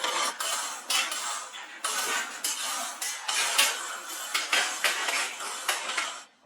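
Metal tools and parts clinking and clattering in a rapid, irregular series of sharp knocks, cutting off abruptly near the end.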